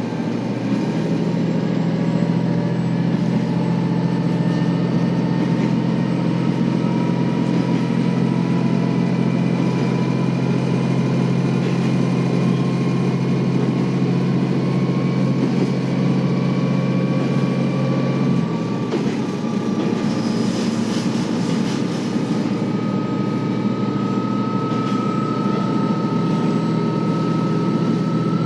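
KiHa 40 series diesel railcar heard from on board while running. The engine drones steadily, and a whine slowly rises in pitch as the train gains speed. About two-thirds of the way through the engine note changes and then settles again.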